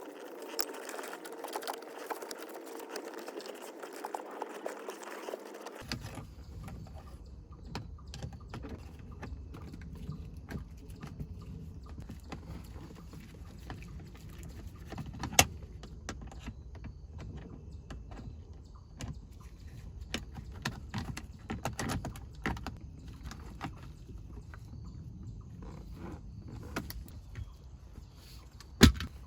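Scattered small plastic clicks and knocks of interior trim parts being handled and pressed into place, with two louder sharp knocks, one about halfway through and one near the end.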